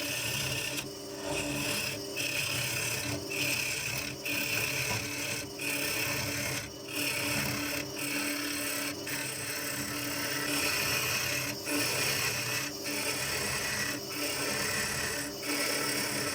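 Wood lathe running while a tool works against the spinning bird cherry bowl in repeated passes, with a short break about every second.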